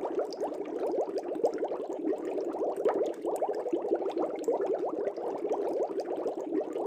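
Air bubbling steadily in an aquarium: a dense, unbroken stream of small, quick bubble blips.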